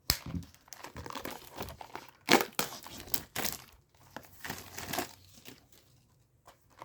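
Irregular crinkling and tearing as a sealed trading-card booster display box is unwrapped and torn open, the loudest tear about two seconds in, quieter near the end.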